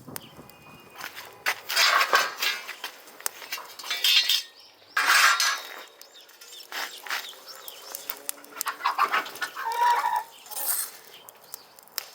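Chickens clucking and squawking in several loud bursts, each a second or less long.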